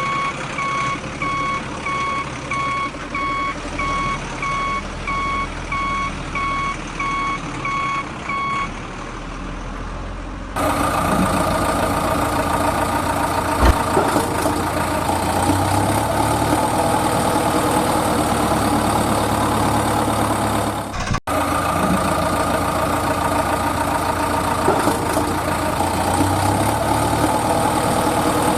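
Truck reversing alarm beeping steadily about twice a second for the first nine seconds or so. After an abrupt cut, a truck engine runs steadily, with a brief dropout about two-thirds of the way through.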